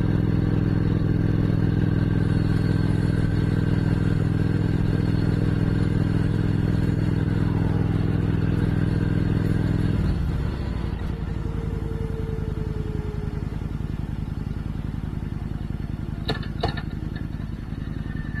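Motorcycle engine running steadily while riding; a little over halfway through, the engine note drops and gets quieter as the throttle eases off. Two sharp clicks near the end.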